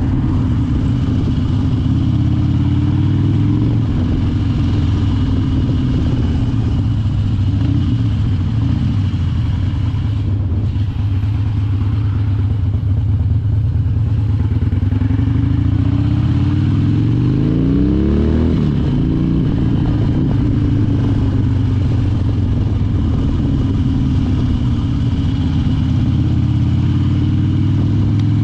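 Harley-Davidson Dyna Wide Glide's V-twin engine running steadily while riding. About two-thirds of the way through, the engine note rises, then drops sharply as it shifts, and it starts climbing again near the end.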